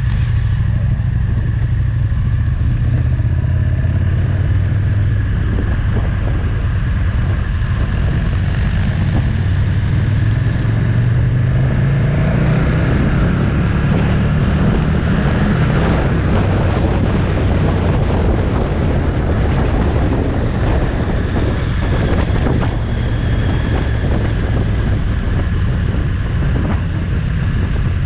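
Motorcycle engine running while riding, with wind and road noise throughout; the engine note rises briefly about ten to thirteen seconds in, then settles back.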